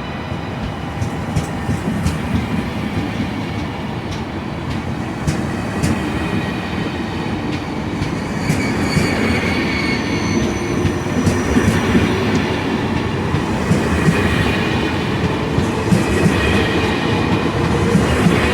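TGV high-speed train running on the rails, a steady rumble with sharp clicks from the wheels over the track and thin high-pitched wheel squeal coming in about halfway through. It grows slightly louder toward the end.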